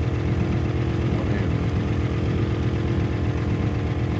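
Engine running steadily at a constant speed with an even low pulse, likely the motor driving the water sprayer.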